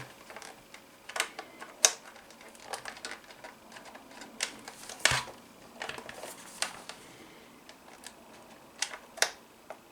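Irregular light clicks and knocks of a plastic LED floodlight and its charger being handled, with a few sharper clicks and one dull knock about halfway through.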